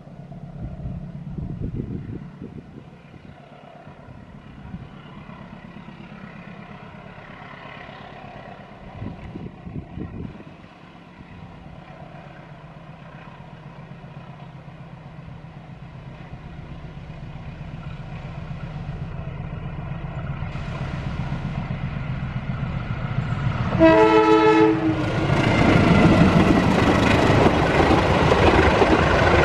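Diesel locomotive approaching with a steady engine drone that grows louder, then a blast of its horn lasting about a second near the end. After the horn comes the loud noise of the passenger train's wheels running over the rails as it passes.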